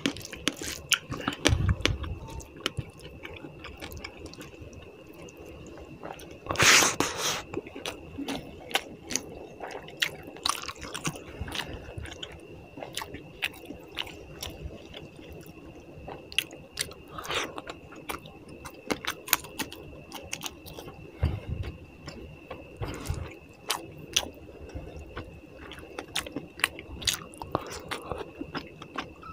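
Close-miked chewing and wet mouth smacking of rice and fish curry eaten by hand, with squishing as fingers mix the rice into the gravy. One louder, longer burst comes about seven seconds in, and a faint steady high whine runs underneath.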